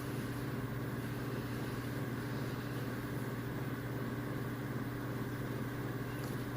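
Steady low background hum with a faint hiss, unchanging throughout: room tone.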